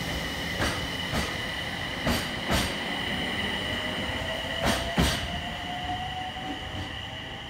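E721-series electric train pulling out and gathering speed. Its wheels click sharply over the rail joints, six times in three close pairs, over a steady high whine, and from about halfway a fainter motor whine rises slowly in pitch as it accelerates.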